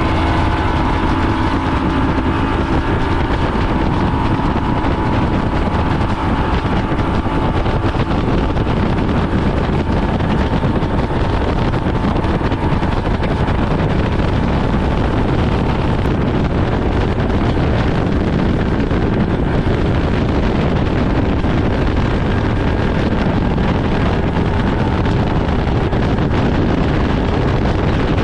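Motorboat running steadily underway, with wind buffeting the microphone over the engine and water noise; a faint steady whine sits over it for about the first half.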